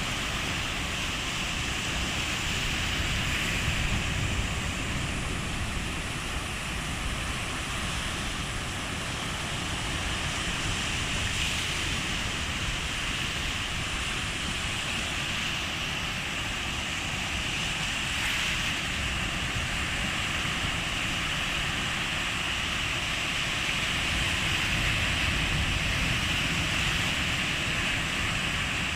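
Calm sea: small waves washing steadily on the shore, a continuous hiss that swells slightly now and then, with a low wind rumble on the microphone.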